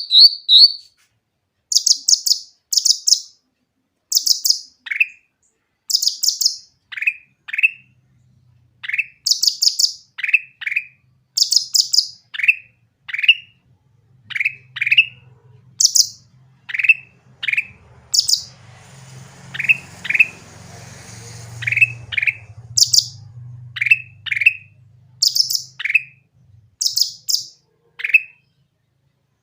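Sooty-headed bulbul (cucak ranting) singing: short, clear phrases repeated over and over, each a quick cluster of high notes with lower sliding notes between. A faint low hum sits under the song through the middle.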